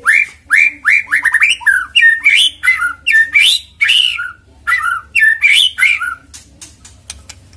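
White-rumped shama (murai batu) singing a loud, rapid burst of short downslurred and swooping notes mixed with sharp clicks, lasting about six seconds before it falls quiet near the end. It is the fast 'tembakan' burst style used in pancingan recordings to set caged shamas singing.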